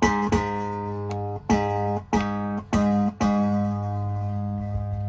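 Marlin Sidewinder electric guitar being played to test its pickups: the same note or chord struck about six times in quick succession, then left to ring out.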